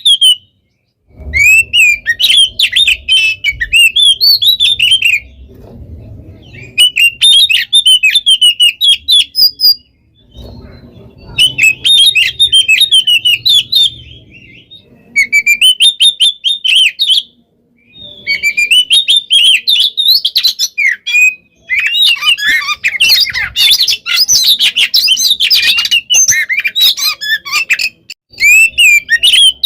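Oriental magpie-robin (kacer) in full song: loud, rapid phrases of high whistles and chattering notes in bursts a few seconds long, with short pauses between them. The song is densest and most continuous for a few seconds near the end.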